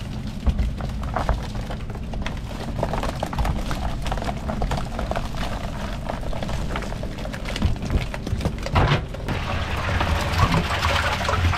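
Wind and water noise aboard a small boat, with scattered knocks and splashes as a cast net is worked for baitfish. About nine seconds in, a denser hiss of splashing water comes in.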